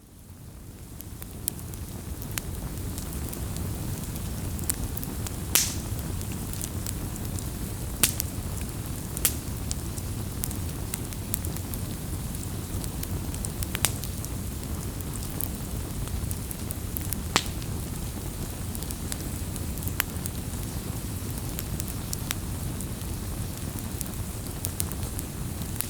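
Campfire of burning wood crackling: a steady hiss of flame with scattered sharp pops, about half a dozen standing out, the first loud one a few seconds in. The sound fades in over the first second or two.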